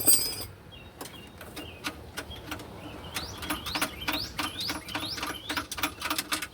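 Fastener being turned with a box-end wrench: a regular run of short rising squeaky chirps with clicks, about three a second.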